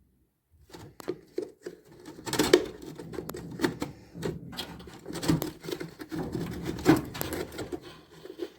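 Irregular knocks, clicks and rubbing of hands and tools working on washing-machine parts during a drum bearing replacement, starting about half a second in.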